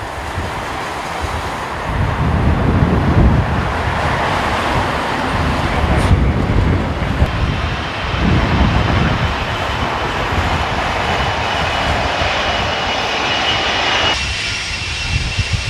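Jet roar of a Boeing 747-400's four Rolls-Royce RB211 turbofans as the jumbo comes in to land. A high fan whine builds near the end and cuts off sharply. Strong gusty wind buffets the microphone throughout.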